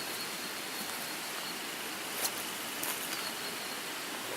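Outdoor ambience: a steady hiss with a faint thin high tone that comes and goes, and a single sharp click about two seconds in.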